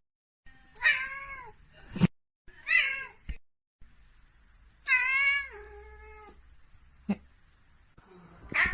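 A cat meowing four times, each call bending in pitch, the third one longer and falling away at its end. A few sharp clicks or knocks fall between the meows, the loudest about two seconds in.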